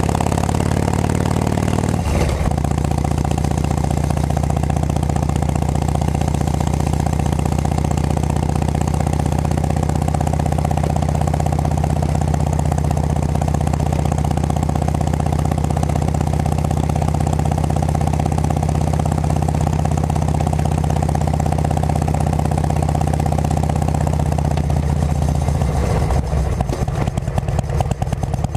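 2006 Harley-Davidson Road King Classic's Twin Cam 88 V-twin running at a steady cruise through aftermarket Cycle Shack pipes. The note breaks briefly about two seconds in, and near the end the engine note drops and turns choppy.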